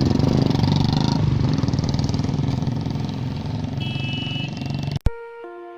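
Motorcycle engine running while riding, with a short high steady tone near four seconds in. It cuts off suddenly about five seconds in, and chiming mallet-percussion music starts.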